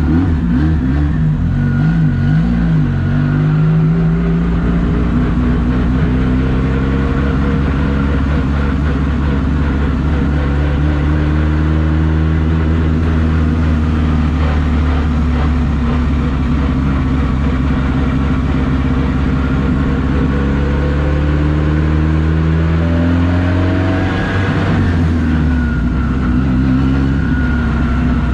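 Car engine running, its pitch climbing slowly over several seconds, easing down, then rising again before dropping back about three-quarters of the way through, over a steady low hum.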